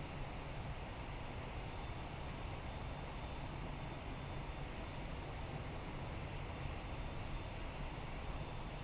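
Jet aircraft engines running steadily: an even rumble with a faint thin steady whine above it.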